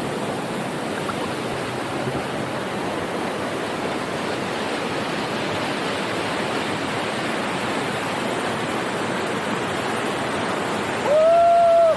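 Steady rush of water falling at a small waterfall. Near the end a short, loud held tone cuts in over it.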